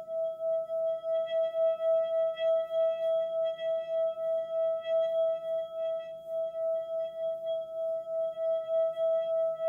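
Calming relaxation music: one sustained ringing tone held at a single pitch, with a soft pulsing wobble about three times a second.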